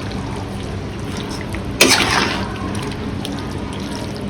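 Thick curry gravy bubbling in a pot as it is gently stirred with a spoon, with one louder stirring stroke a little under two seconds in.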